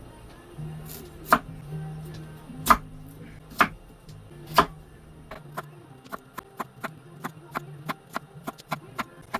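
Knife chopping on a cutting board: four heavy cuts about a second apart, then a quicker, even run of lighter chops, about three a second.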